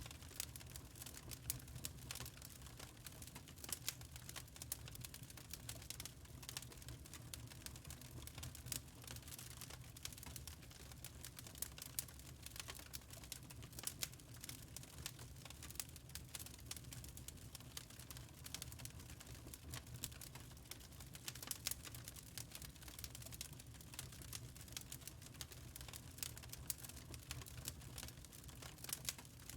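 Wood fire crackling in a fireplace: constant irregular small snaps and pops, with a few louder ones, over a low steady hum.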